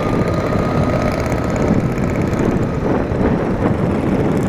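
Motorcycle engine running steadily under way, with rushing wind on the rider's microphone; the engine note rises and falls slightly.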